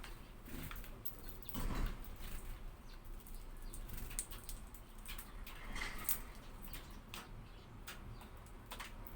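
Hawfinches: short sharp ticks scattered irregularly, with a louder rustle about two seconds in.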